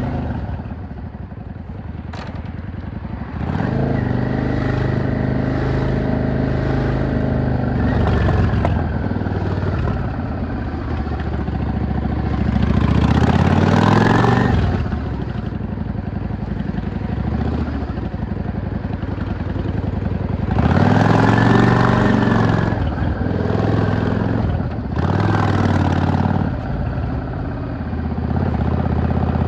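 V-twin cruiser motorcycle engine and exhaust under way. The throttle opens several times, the note climbing and then dropping as the rider shifts or rolls off.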